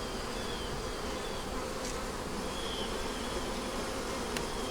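Honey bees buzzing steadily in a large mass around an opened hive while its frames are being inspected, with a single light click near the end.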